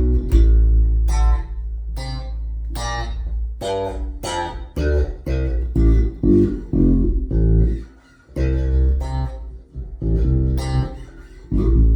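Custom Fender American Deluxe Precision Bass with a Bartolini active three-band preamp, played slap-and-pop style through a bass amp. It is a run of loud notes with sharp, bright attacks and deep low end, with a short break about eight seconds in.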